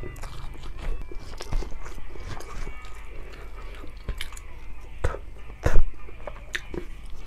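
Close-miked mouth sounds of someone eating rice and grilled fish by hand: wet chewing and lip smacks with many small sharp clicks. A louder knock comes near the end, about six seconds in.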